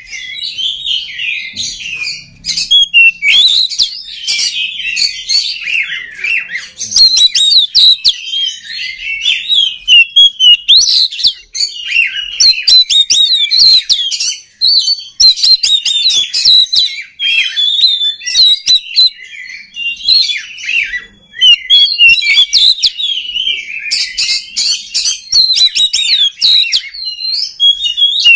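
Male oriental magpie-robin (kacer) in full song: a fast, near-continuous stream of varied whistled and chattering notes, with only brief breaks.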